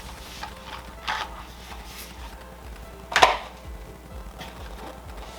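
Packaging being handled while unboxing: a brief rustle about a second in and a louder, sharp rustle or knock about three seconds in.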